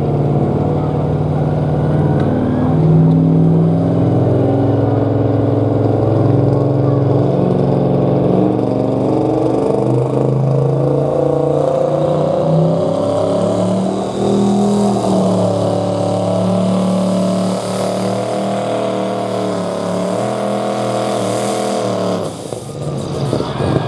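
Pro stock diesel pull truck's engine running hard under load while dragging the weight sled, its pitch shifting and climbing partway through. The engine note drops away suddenly near the end as the run ends.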